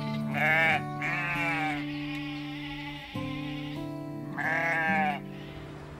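Sheep bleating three times: two bleats close together in the first second and a half, and one more about four and a half seconds in. Background music with long held low notes plays under them.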